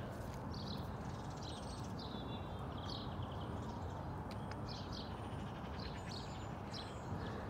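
Small songbirds chirping and trilling in short repeated phrases over a steady low background rumble.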